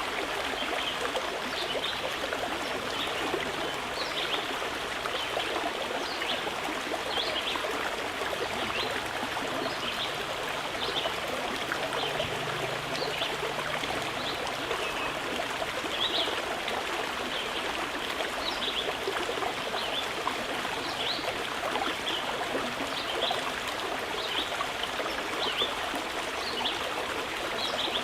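Mountain river flowing steadily over rocks, a constant rushing and trickling, with short high-pitched notes dotted through it.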